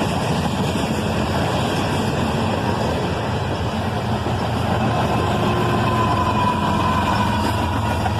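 Freight train passing: diesel locomotive engines running with a steady low hum over the rumble of wheels on the rails. A faint thin whine joins about five seconds in.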